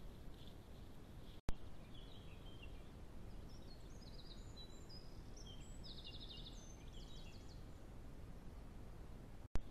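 Faint bird song: a run of short, high chirps and quick trills, starting about two seconds in and ending shortly before the end, over a steady low hiss. A sharp click sounds about a second and a half in and again near the end, where the recording breaks between camera-trap clips.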